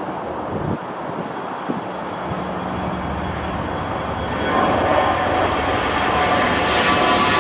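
Airliner's engines running as the aircraft passes. The noise grows louder about halfway through, and a whine of several steady tones rises over the rumble.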